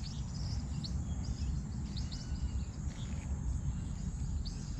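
Birds chirping in short, scattered calls over a steady low rumble of outdoor noise.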